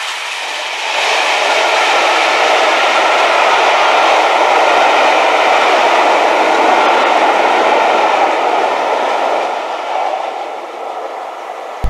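Passenger coaches of a steam-hauled train passing at speed close by: a steady rushing of wheels on the rails that builds about a second in and fades away near the end.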